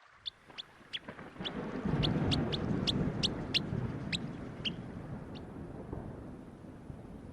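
Short, sharp bird calls repeated about two or three times a second, stopping about five seconds in, over a low rumbling noise that swells about two seconds in.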